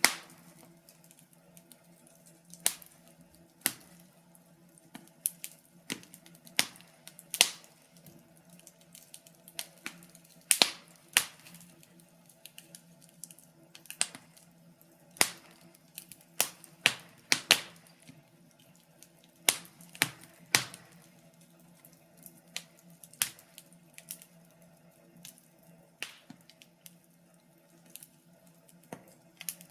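Wood fire crackling: irregular sharp pops and snaps, a few each second at the busiest, over a faint steady low hum.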